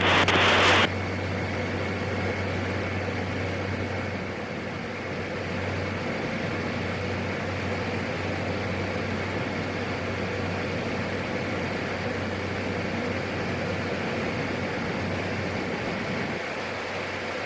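Steady drone of a PAC 750XL's single turboprop engine and propeller in descent, a low even hum under a constant hiss.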